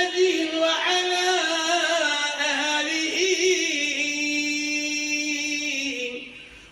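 A solo man's voice chanting an Islamic ibtihal (devotional supplication) in ornamented, melismatic lines, settling into a long held note that fades out near the end.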